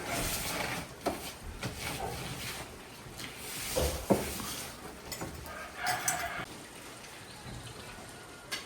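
A chicken clucking, with a short pitched call about six seconds in, among a few scattered knocks, the sharpest about four seconds in.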